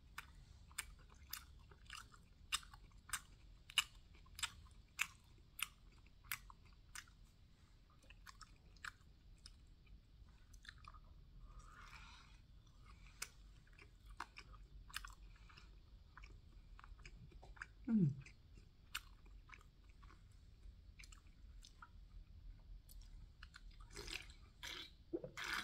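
Close-up chewing of a waffle breakfast sandwich, with a wet mouth click on each chew, a little under two a second for the first several seconds and sparser after. A short hum falling in pitch comes about two-thirds of the way through, and there are sips from a drinks can near the end.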